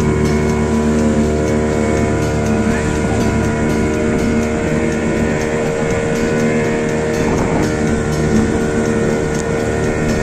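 Motorboat engine running steadily at a constant speed, a continuous even drone.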